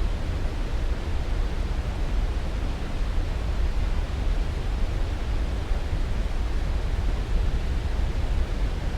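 Steady sleep-aid noise, an even rushing with most of its weight in the deep bass and little hiss on top. It does not change.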